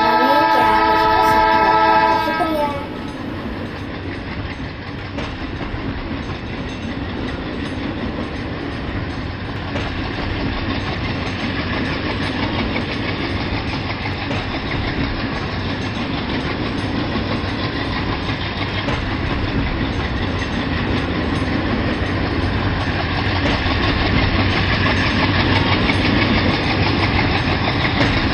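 A train whistle sounds a held chord of several tones for about the first two seconds and cuts off. Then comes the steady rumble of a train running on the track, slowly getting louder.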